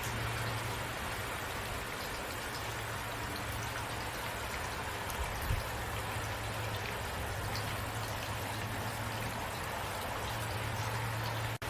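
Steady rain falling, with many small drop taps scattered through it over a low steady hum. The sound cuts out for an instant near the end.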